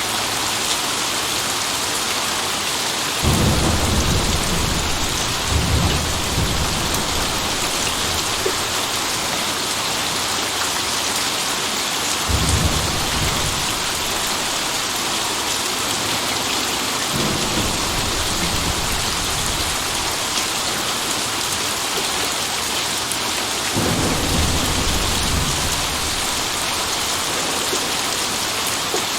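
Steady heavy rain with rolls of thunder: low rumbles that begin suddenly about 3 seconds in, again around 5 and 12 seconds, and more faintly near 17 and 24 seconds, each fading over a second or two.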